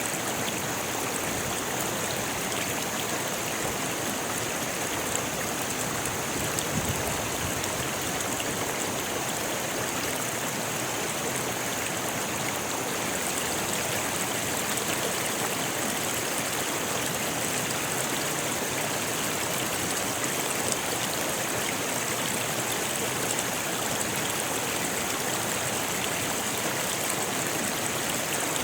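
Rocky river flowing, a steady rushing and splashing of water over stones, even and unbroken throughout.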